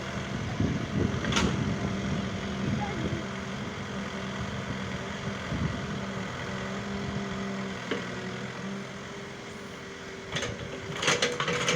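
Excavator's diesel engine running at a steady speed. There is a sharp click about a second in, and a run of metallic knocks and clanks near the end.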